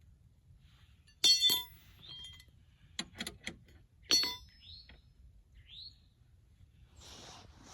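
Sharp clinks with a short ring: two close together about a second in, a few quick knocks around three seconds, and another ringing clink just after four seconds. Between them a bird gives short rising chirps.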